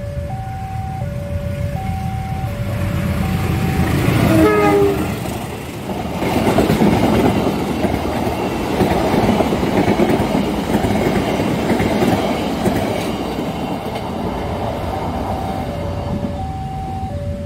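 A level crossing alarm sounds an alternating two-tone ding-dong, then about four seconds in a CC 203 diesel-electric locomotive's horn blasts briefly with a slight fall in pitch. The passenger train then passes for about seven seconds, its coaches and wheels rumbling and clattering over the rails, and the crossing alarm is heard again near the end.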